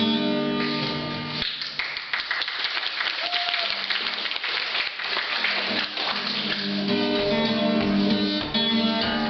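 Acoustic guitar playing strummed chords as a song's introduction. About a second and a half in, the chords give way to a few seconds of audience applause, and then the strumming comes back.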